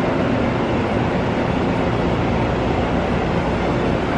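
Shinano Railway SR1 series electric train rolling slowly into a station platform: a steady rumble of wheels and running gear.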